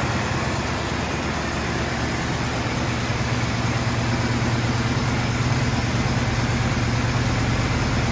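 AMC V8 in a 1974 Javelin idling steadily, its exhaust running through Super Turbo mufflers.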